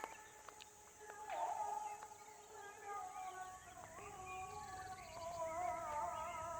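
Distant animal howling: several long, wavering calls overlapping and building toward the end.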